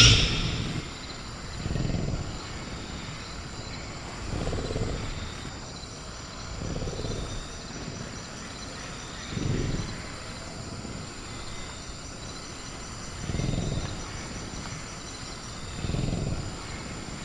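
Sound-designed velociraptor growling: six short, low rumbling growls a couple of seconds apart, after the fading end of a louder call at the start. A faint, steady chirring of crickets runs underneath.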